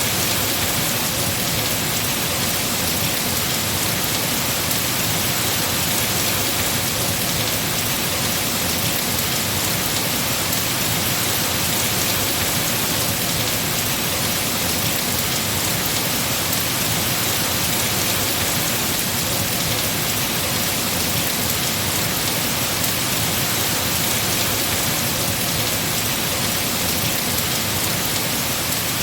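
Heavy rain falling on tree leaves, a steady dense hiss.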